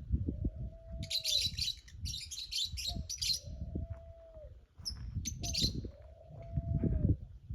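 Small birds chirping in quick twittering runs. Beneath them, a louder low rumble comes in pulses every two to three seconds, each with a held tone.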